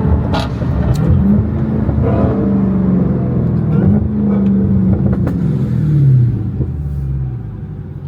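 Car engine running under throttle, its pitch climbing and falling as it revs, then easing off and going quieter near the end.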